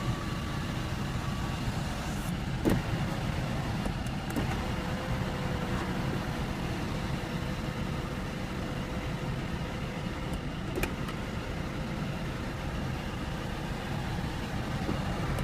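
Steady low hum inside a car cabin, with a few light clicks.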